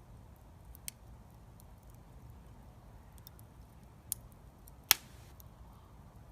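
Wood fire crackling: scattered sharp pops and ticks, the loudest about five seconds in, over a low steady rumble.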